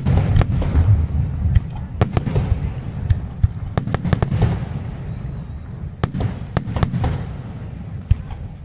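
Aerial fireworks display: rapid sharp cracks and bangs over a continuous low rumble of bursting shells. The bangs thin out and the rumble fades toward the end.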